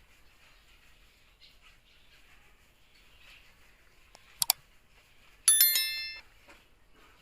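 Two sharp clicks, then a loud metallic clang: a struck metal object rings with several clear high pitches that fade within about a second.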